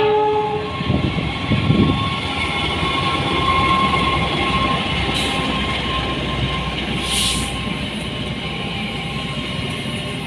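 A train horn note cuts off about half a second in, then a train passes with a steady rumble and a faint thin whine above it.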